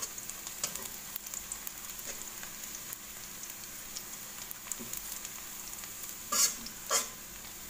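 Chopped shallots and garlic sizzling steadily in hot oil in a nonstick pan over medium heat, with a stainless steel slotted spatula clicking and scraping against the pan as they are stirred. Two louder spatula scrapes come near the end.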